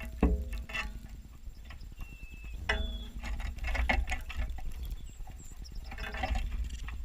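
Irregular taps and knocks of small birds landing and pecking on a bird feeder, picked up close by a camera mounted on it, with a few short high chirps and a steady low rumble underneath.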